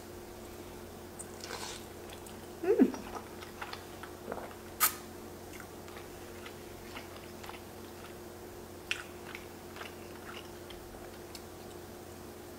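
A person chewing a mouthful of creamy noodles with beef close to the microphone: soft wet chewing and mouth smacks with scattered small clicks. There is a brief louder sound about three seconds in and a sharp click near five seconds. A faint steady hum runs underneath.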